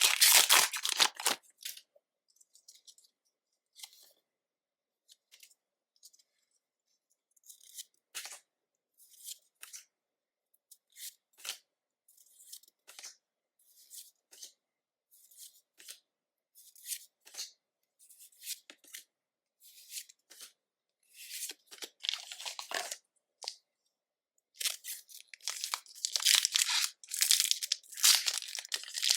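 Foil Pokémon booster pack wrapper crinkling and tearing at the start, then a string of soft, separate card slides and taps about once a second as the cards are gone through one by one, and loud crinkling and tearing of the next foil pack near the end.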